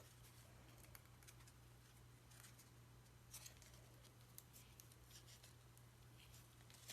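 Near silence: a low steady hum of room tone with a few faint soft rustles and taps of small craft pieces being handled.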